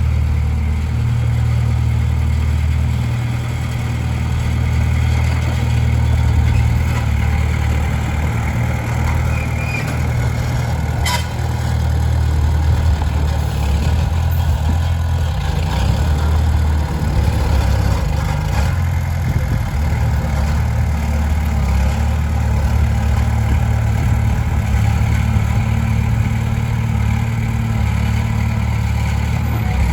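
Diesel engine of heavy earthmoving machinery running steadily under load, with a low drone that swells and eases a little. A single sharp click comes about eleven seconds in.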